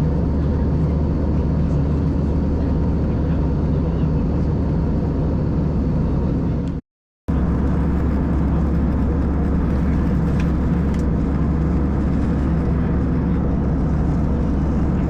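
Steady cabin drone of an Airbus A320 in flight: engine and airflow noise, heaviest in the low range. It drops out for a split second about halfway through.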